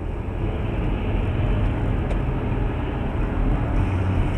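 Steady drone of a moving vehicle's engine and road noise picked up by a dash cam, with a low engine hum that doesn't change.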